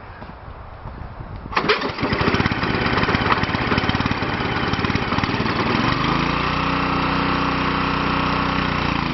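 Ariens snowblower's small gasoline engine cold-starting: it catches about a second and a half in and runs unevenly with rapid firing pulses, then settles into a steady even run about six seconds in. It is running on choke from cold.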